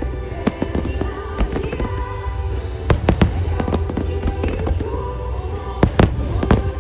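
Fireworks shells bursting in quick succession over pop music played through loudspeakers, timed to the music as a music starmine. The bangs are sharp, with the loudest pairs about three seconds in and near six seconds.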